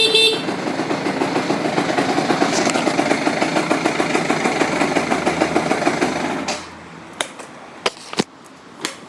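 Yamaha BW'S 100 scooter's two-stroke engine, fitted with a stainless muffler, running steadily; a horn toot ends in the first half second. The engine cuts off about six and a half seconds in, followed by a few sharp clicks.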